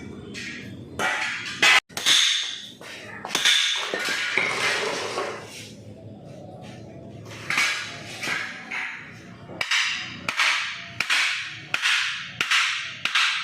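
Series of hammer strikes on car body metal during panel repair, each with a short ringing tail. Irregular at first, then a steadier beat of about three strikes every two seconds in the second half.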